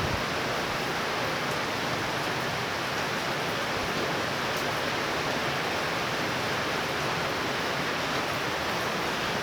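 Heavy rain from a thunderstorm falling steadily, a continuous even hiss with no thunder.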